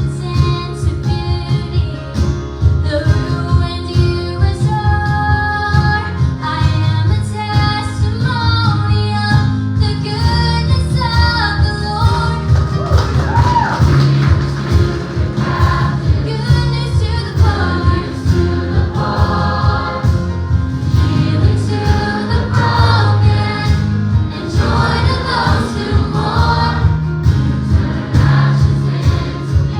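A live gospel worship song: several singers, led by women's voices, backed by a band with a strong bass and a steady beat.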